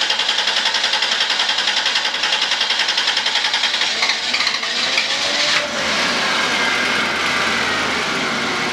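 Car engine cranking on its starter, a fast even pulsing, for about five and a half seconds before it catches and runs steadily. A hard start: the engine takes a long time to start.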